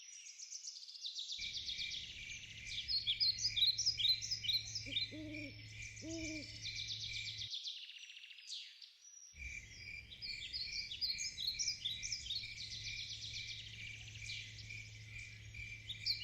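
Nature soundtrack of many birds singing and chirping over one another, with a steady, rapidly pulsing note running beneath them. Two low hooting calls come about five and six seconds in. The sound thins out briefly around the middle.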